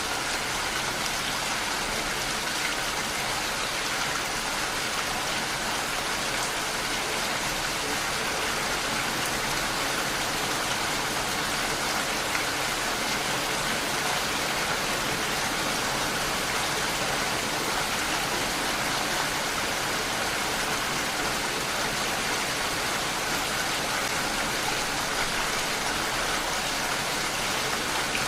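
Steady rain falling on surfaces, an even hiss of many drops without a break.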